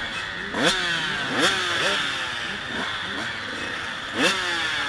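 Two-stroke KTM 85SX dirt bike engine revving hard, its pitch climbing and dropping again and again, with sharp loud peaks about half a second in, about a second and a half in, and near the end.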